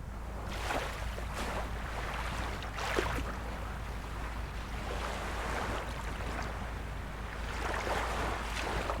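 Small waves of a calm sea washing in, in a run of soft surges, over a steady low rumble.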